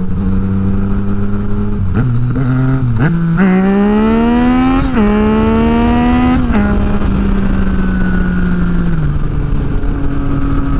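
Yamaha MT-09 inline three-cylinder engine with an Akrapovič exhaust and no dB killer, idling, then blipped twice and revved up twice with rising pitch. It settles back to a steady idle.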